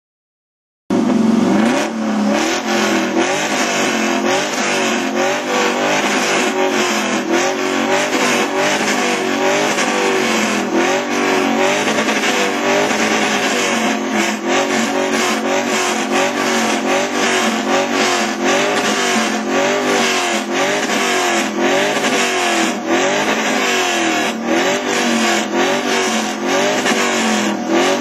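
Car engine revved hard over and over through a CORSA performance exhaust, the pitch climbing and dropping again and again, very loud throughout. The sound cuts in suddenly about a second in.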